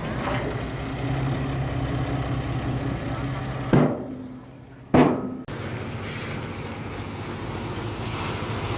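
Heavy diesel machinery engine running steadily. Two sharp clicks come near the middle, with a short quieter stretch between them.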